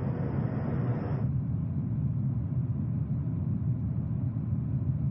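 Steady low rumble of jet aircraft engines, with a higher hiss that drops away suddenly about a second in.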